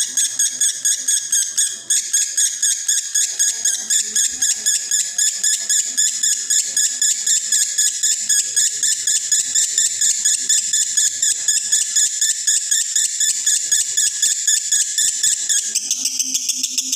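Male konslet lovebird in breeding condition singing a long, unbroken high-pitched chattering trill of about six notes a second. Near the end the trill's lowest notes drop out and a low steady hum comes in beneath it.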